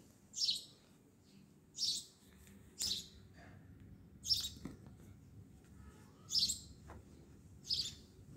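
A bird chirping repeatedly: short high chirps about every one to two seconds, over a faint steady low hum.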